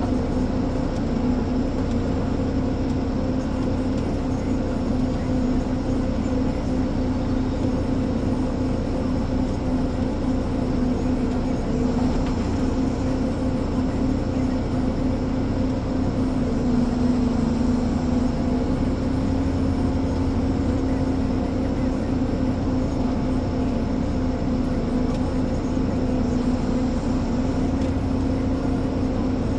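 Ponsse Elephant forwarder's diesel engine running at a steady speed: a constant drone with a steady hum that does not change.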